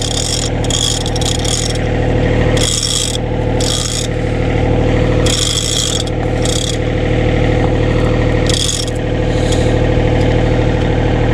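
Excavator's diesel engine running steadily under the lift, with about seven short hissing bursts, each roughly half a second long, as the bucket raises a heavy stone on a chain block.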